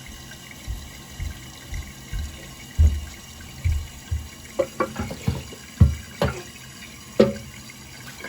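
A ceramic toilet tank lid being handled and set back on the tank: a series of dull thuds, then several sharper clunks and knocks, over a faint steady hiss of water.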